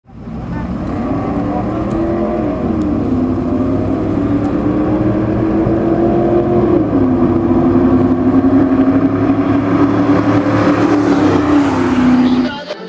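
A truck engine running at high revs, its pitch held high and climbing slowly, then dropping sharply three times, with a growing hiss near the end. It cuts off suddenly just before the end.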